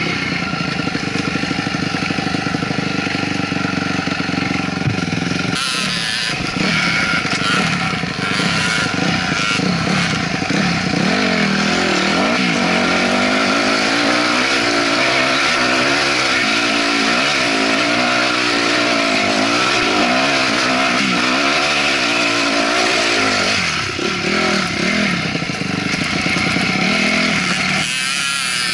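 Honda CRF250R dirt bike's single-cylinder four-stroke engine running, steadier at first, then revving up and down over and over through the middle stretch.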